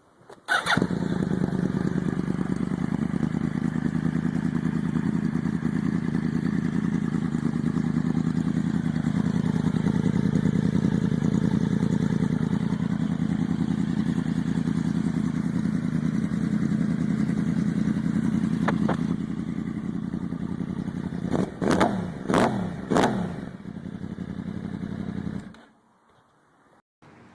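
Motorcycle engine starting up and idling steadily, then blipped in a few quick revs near the end before the sound stops abruptly.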